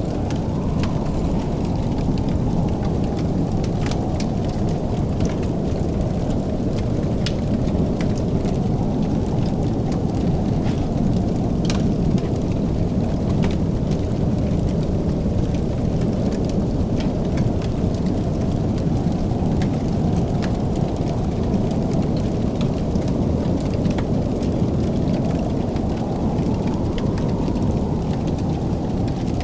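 Fireplace crackling, with scattered sharp pops and snaps over a steady low rushing rumble.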